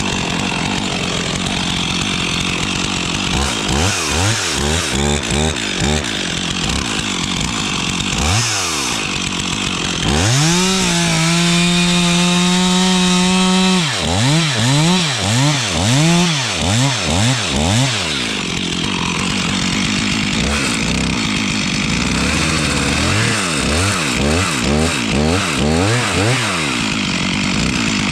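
Stihl chainsaw being revved in quick repeated throttle blips, then held at full throttle for about three seconds with its pitch dipping slightly, then blipped again twice more.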